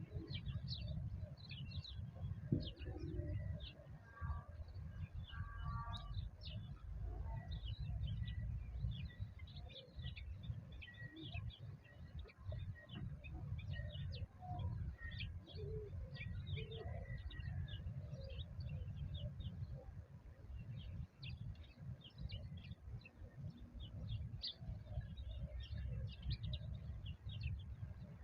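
Many small birds chirping rapidly and constantly, with scattered lower calls that may include dove cooing, over a steady low rumble.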